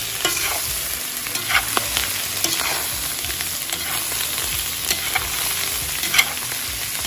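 Diced potatoes and meat frying in lard in a cast-iron kazan, sizzling steadily. A metal spoon stirs through them, with repeated short scrapes against the pot.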